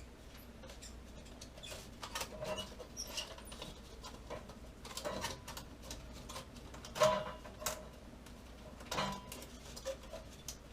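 Scattered light clicks, taps and knocks of tools and metal parts being handled during water heater work, over a low steady hum; the sharpest knock comes about seven seconds in.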